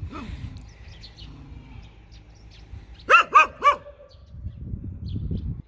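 A dog barking fiercely, three sharp barks in quick succession about three seconds in. A low rumbling noise follows near the end.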